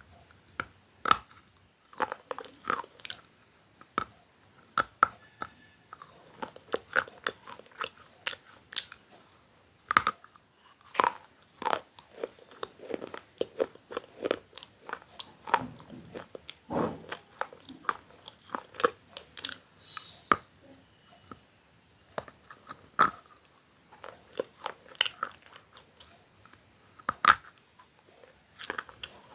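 A person biting and chewing crunchy food close to the microphone: a long run of sharp, irregular crunches and crackles, with a few short pauses between bites.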